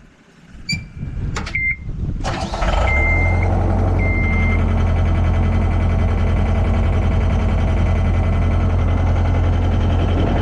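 John Deere 317 skid steer's diesel engine being started: a few clicks and short warning beeps, brief cranking about two seconds in, then the engine catches and runs steadily.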